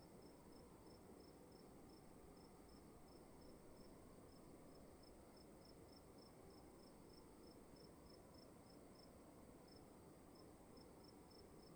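Faint crickets chirping: short chirps repeating about three times a second over a steady, higher continuous trill, with a low hum of room tone underneath.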